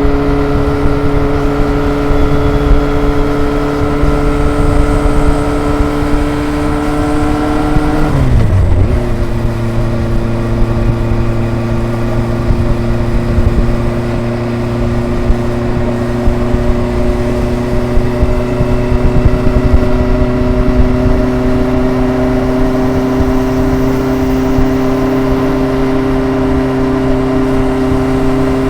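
Kawasaki ZRX's four-cylinder engine and exhaust under way, the pitch climbing slowly as it pulls. About eight seconds in the pitch drops sharply at a gear change, then climbs slowly again.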